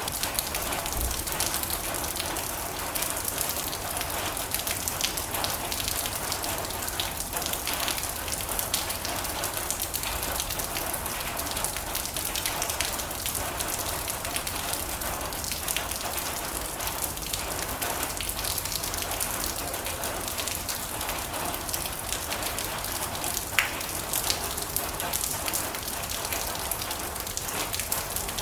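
Heavy rain drumming steadily on a metal roof, a dense patter of drops with a few louder single drops hitting now and then.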